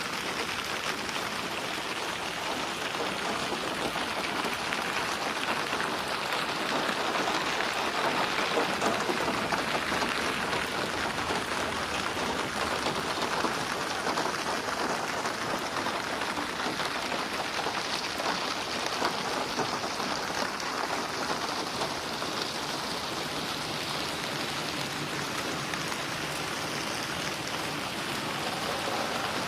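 Steady rain falling on a surface, with dense pattering drops and splashes and no thunder.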